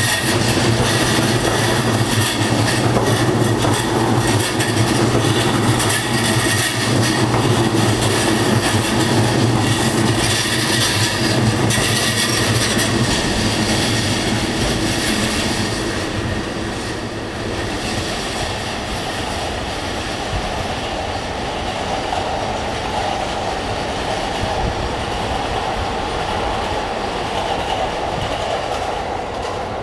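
Electric commuter train running past close by, its wheels clacking over the rail joints. About halfway through the noise eases off and gives way to a quieter, smoother train sound.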